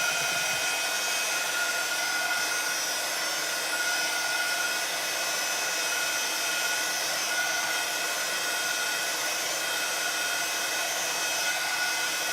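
Craft heat tool or dryer blowing steadily to dry ink on paper: an even rushing hiss with a high motor whine.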